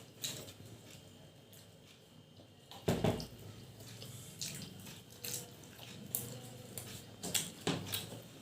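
Wet eating sounds: chewing and lip smacks from people eating luchi dipped in cholar dal, with a louder thump about three seconds in.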